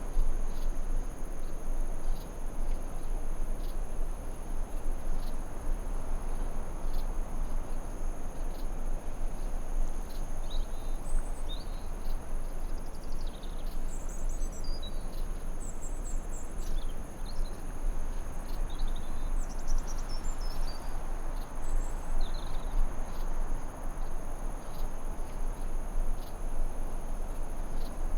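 Forest ambience: a steady hiss under a continuous high-pitched cricket drone, with scattered short bird chirps through the middle stretch.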